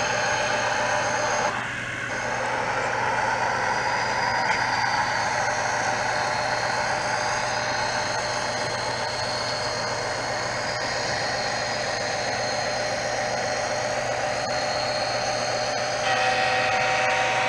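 HO scale model trains running, a steady mechanical drone with several whining tones that shift about two seconds in and again near the end.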